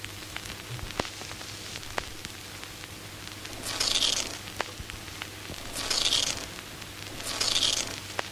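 Old-film soundtrack noise: a steady low hum with scattered crackling clicks. Three short bursts of hiss come about 2 seconds apart, starting a little before the middle.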